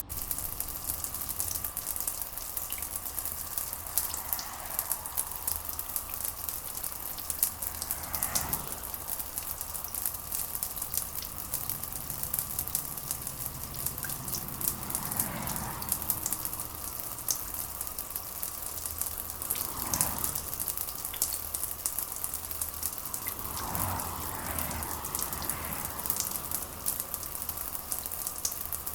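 Steady rain with a dense patter of drops close by over a low, steady rumble. Several soft swells rise and fade through it, a few seconds apart.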